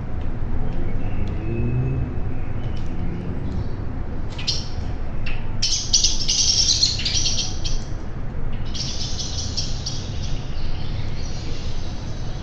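Songbirds chattering in quick, dense bursts of high calls, loudest about six seconds in and again about nine seconds in, over a steady low rumble.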